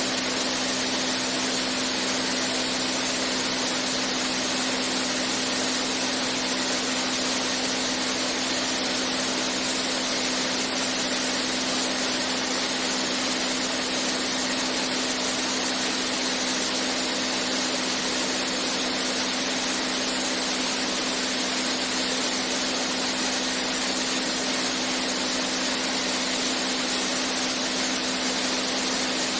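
Cockpit noise of a single-engine Beechcraft A36 Bonanza in level flight: the piston engine and propeller as an even, unchanging drone, with a steady low hum under a broad rush of noise.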